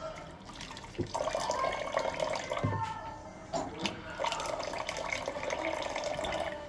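Kitchen tap running into the sink while dishes are washed by hand, with a couple of knocks of dishes about one and three seconds in.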